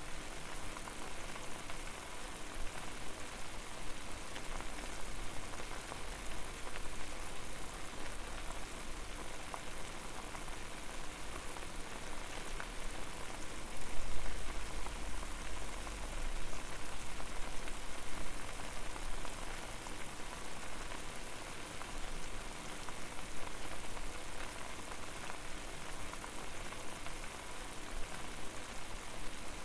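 Water boiling over a fire: a steady, dense bubbling and crackling hiss, with a low rumble that swells briefly about fourteen seconds in.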